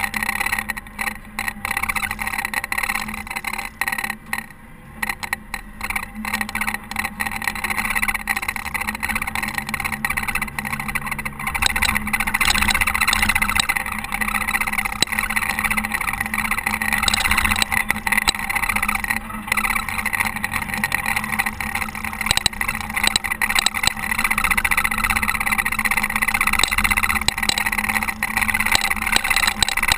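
Caterpillar TH330B telehandler's diesel engine running steadily while snowplowing, with a constant low hum under a broad noise; it dips in level about four seconds in and runs louder from about twelve seconds on.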